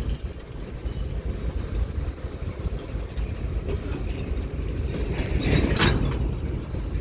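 Railroad cars moving in a railyard: a steady low rumble, with a louder sharp, harsh noise about five and a half seconds in.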